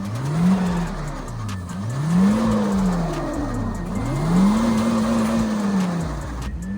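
Honda Civic engine revved hard over and over, its pitch rising and falling in long sweeps, with the tyres spinning in snow as the car tries to drive out of the spot where it is stuck.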